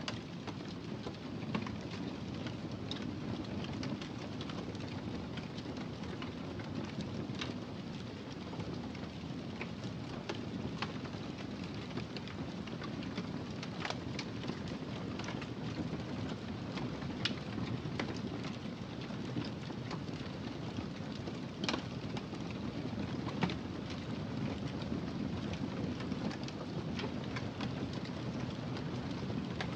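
Wood fire burning in a fireplace: a steady low rush of flame with irregular sharp crackles and pops, one of the louder pops about 22 seconds in.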